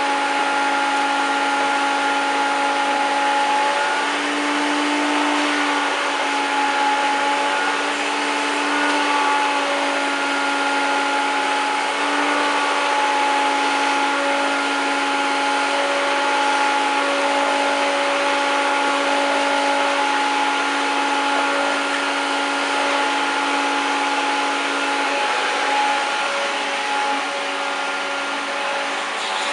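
1993 Hoover Turbopower 1000 U2814 vacuum cleaner running steadily, cleaning a sofa: a motor whine over a rush of air. Its pitch shifts slightly now and then.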